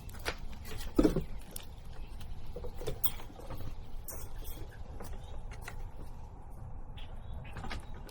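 Blue jays and squirrels at a backyard feeder: scattered light taps and scratches, with a heavier thump about a second in, over a low steady rumble.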